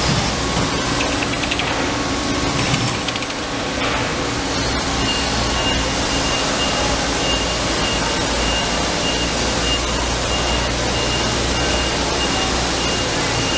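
Industrial machinery running: a steady mechanical hum with a rapid fine chatter in the first few seconds, then a high pulsing tone from about five seconds in.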